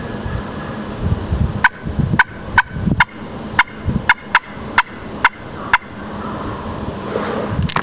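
Wild turkey yelps: a series of about ten short, sharp notes, roughly two a second, that stops about two seconds before the end, followed by a soft rustle.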